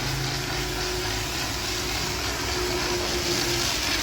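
A motor running steadily under a constant hiss, with a low hum that fades out about a second in.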